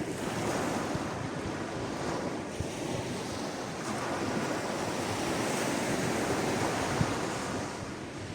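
Sea waves washing onto the shore, a steady wash of surf that swells and eases slightly, with some wind noise on the microphone.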